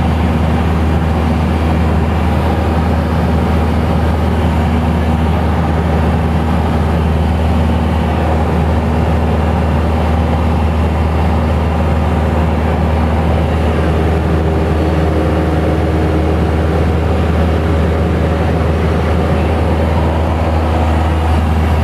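Light aircraft's piston engine and propeller running at a steady, loud drone, heard from inside the cabin.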